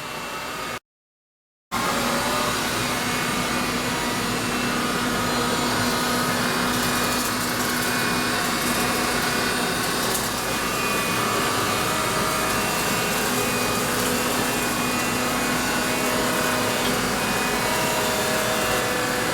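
Cordless stick vacuum running steadily with a constant hum as it cleans along the wall edge and baseboard. The sound drops out completely for under a second near the start.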